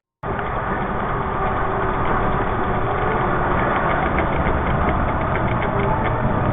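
A vehicle engine running steadily, a dense low rumble with no change in speed.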